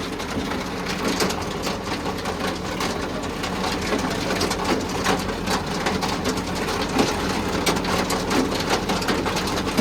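Farm vehicle engine running steadily, heard from inside the cab, under a dense crackling patter.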